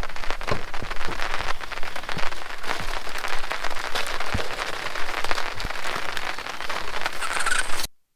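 Rain falling steadily, with many separate drop hits heard through the hiss. The sound cuts off abruptly near the end.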